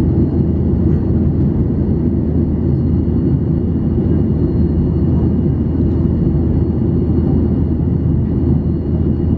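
Steady low roar inside the cabin of a Boeing 737-800 in flight: its CFM56-7B engines and the airflow over the fuselage, with two faint steady high whines on top.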